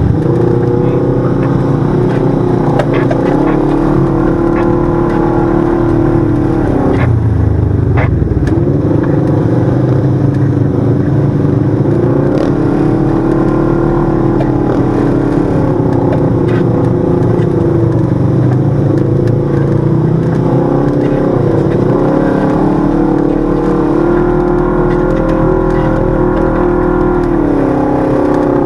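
Side-by-side UTV engine running under way, its pitch rising and falling with the throttle. A few sharp knocks come about seven and eight seconds in.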